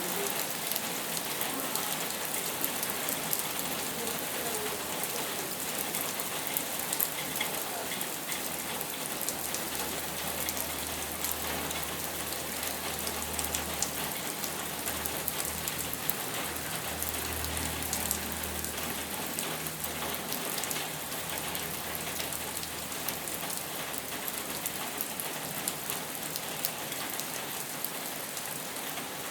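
Steady rain falling, a continuous hiss with many small drop ticks. A faint low rumble sits under it for about ten seconds in the middle.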